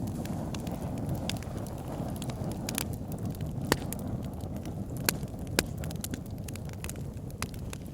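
Wood fire in a log burner, burning with a steady low rumble and scattered sharp crackles and pops of the logs, a few louder pops near the middle.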